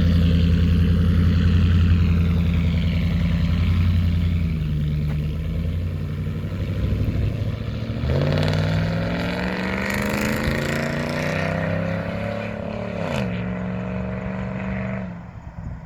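Ram 1500 pickup's straight-piped exhaust (muffler and resonators deleted, stock cats) running with a steady deep drone, then accelerating with a rising pitch from about eight seconds in. Near thirteen seconds the pitch drops sharply once and holds, and the sound falls away near the end.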